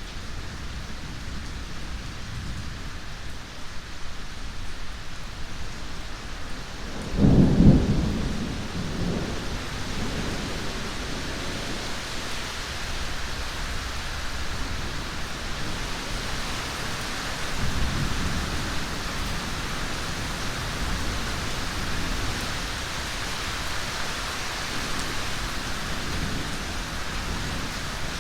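Thunderstorm: steady heavy rain, with a loud thunderclap about seven seconds in that rumbles for a couple of seconds, and fainter rolls of thunder later on.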